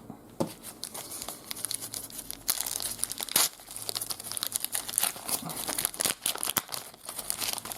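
Trading card pack wrapper crinkling and tearing as a pack is opened by hand, with quick irregular crackles and rustles.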